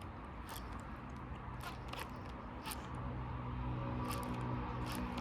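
Fishing reel being wound in, with scattered sharp clicks, over a steady low hum that grows stronger about three seconds in.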